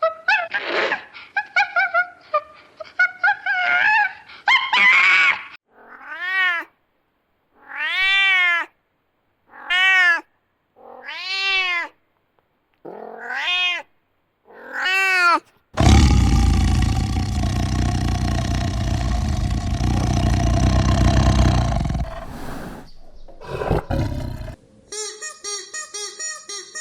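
A run of farm-animal calls. It opens with a few mixed cries, then six short meow-like cries, each rising and falling in pitch. A loud, rough call follows, lasting about six seconds, and fast pulsed calls come near the end.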